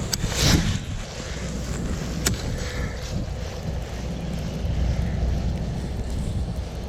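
Wind buffeting the microphone with a steady low rumble, in stormy rain weather. A brief louder rush about half a second in and a single sharp click a little after two seconds.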